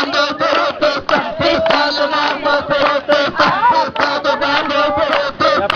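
A group of voices chanting together in a quick, even rhythm.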